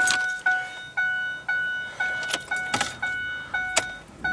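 2009 Ford F-150's dashboard warning chime repeating steadily, about two chimes a second, with the key in the ignition, mixed with a few sharp clicks and rattles of the key ring.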